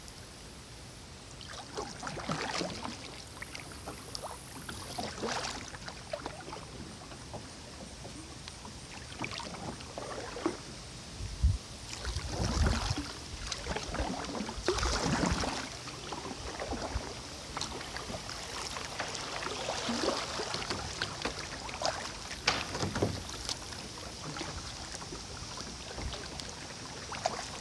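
Kayak paddle strokes dipping and pulling through river water, a splashy stroke about every two and a half seconds, with a few low thumps around the middle.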